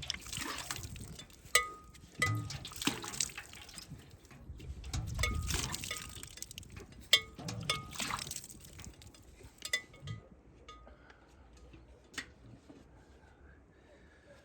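Liquid pouring and splashing into a container in several swelling spells, with sharp metallic clinks in between; it quietens after about ten seconds.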